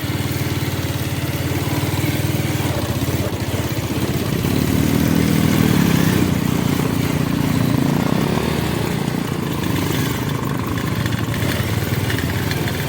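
Motorcycle engine running while being ridden, its revs climbing about four seconds in and easing back after about eight seconds.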